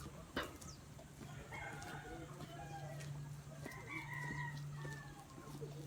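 Chickens clucking and a rooster crowing, in drawn-out calls about a second long, over a steady low hum.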